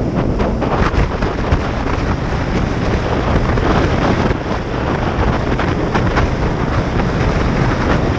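Wind buffeting a GoPro Session's microphone at riding speed, with the Kawasaki Ninja 500's parallel-twin engine running underneath.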